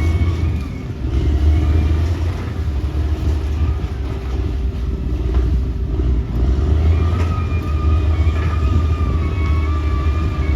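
Caterpillar D6R XL bulldozer's diesel engine running steadily under load, easing briefly about a second in and again around six seconds, with a thin wavering whine over the engine.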